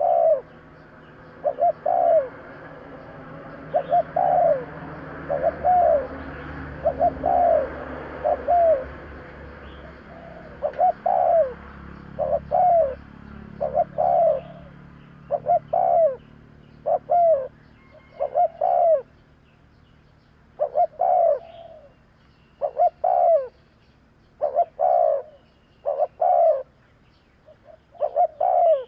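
Spotted dove cooing over and over, short coo notes falling in pairs and threes, about one to two a second, with brief pauses between groups. A faint hiss sits underneath, mostly in the first half.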